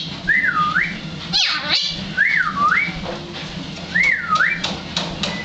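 Talking pet magpie whistling the same short phrase three times, each gliding up, down and back up, with a brief sweeping call between the first two.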